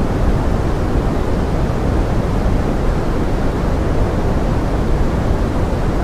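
Steady pink noise with forest rain: an even, unbroken hiss weighted toward the low end.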